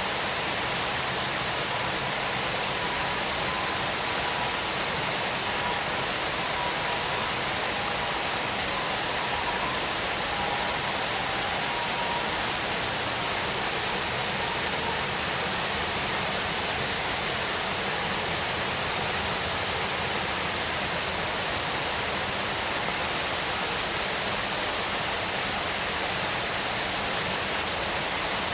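Waterfall: a steady, unbroken rush of falling water. A faint wavering tone sits in it for the first half.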